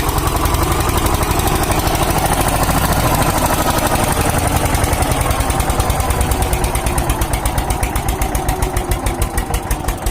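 Tractor diesel engine running with a steady, fast chugging, which eases off a little near the end.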